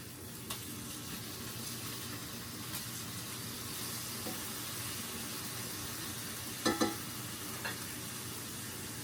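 Mini smashburger patties sizzling steadily in a hot pan. Two sharp knocks come close together about two-thirds of the way through, then a lighter one.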